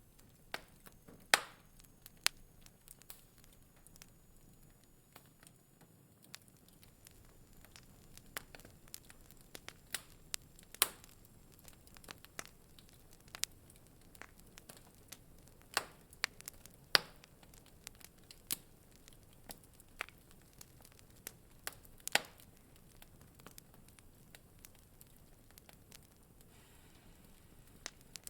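Wood fire crackling in a fireplace: irregular sharp snaps and pops over a faint steady hiss, with a few louder pops.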